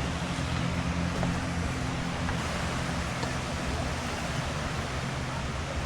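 A motor engine hums steadily under a constant wash of surf-like noise, its low tone shifting about two and a half seconds in.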